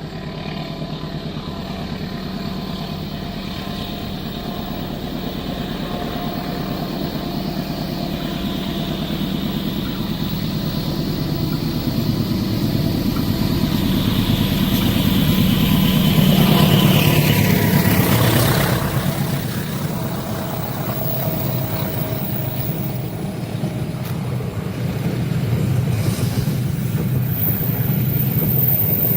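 Train passing a level crossing: the running noise builds steadily to a peak about 17 seconds in, where a falling pitch sweep marks the locomotive going by, and then the train keeps rolling past.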